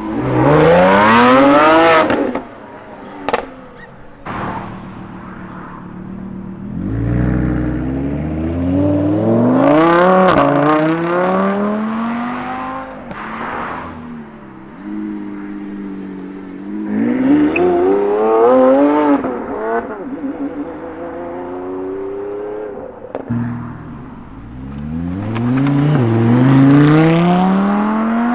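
Supercar engines revving hard in several separate bursts, each climbing quickly in pitch. The first cuts off suddenly about two seconds in, and the last and loudest rise comes near the end.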